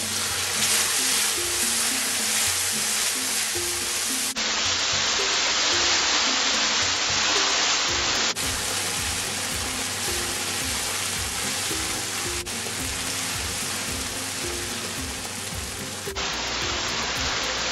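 Curry masala paste sizzling and frying in hot oil in a wok as it is stirred with a wooden spatula: the bunjing stage, cooking the ground spices down in oil. Soft background music plays underneath.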